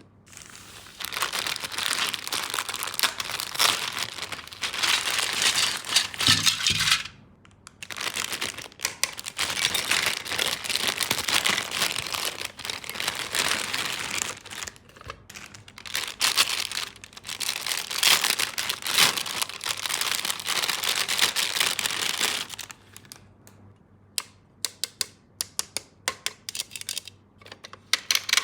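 Plastic packaging crinkling and rustling as a toy tool set is unwrapped, in three long stretches with short pauses between them. Near the end, scattered sharp clicks of small plastic parts being handled.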